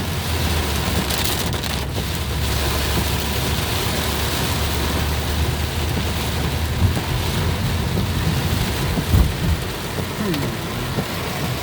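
Heavy rain pounding on a car driving through a thunderstorm, heard from inside the cabin: a dense, steady hiss of rain over the low rumble of the car on the wet road.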